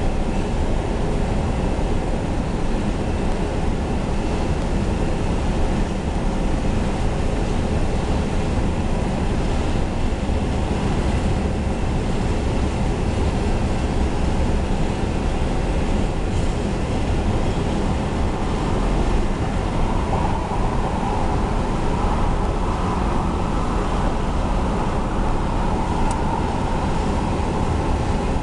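Double-stack intermodal freight train rolling past: a steady, even rumble of steel wheels on rail and the cars' running gear. About twenty seconds in, a higher-pitched hum joins the rumble.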